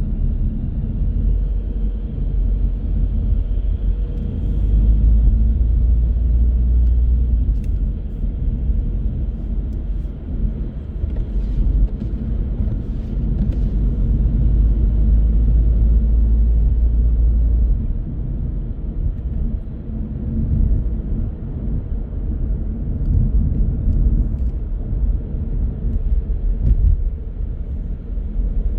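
A car driving on the road: a steady low rumble of tyres and engine, growing louder for a few seconds about five seconds in and again from about twelve to eighteen seconds in.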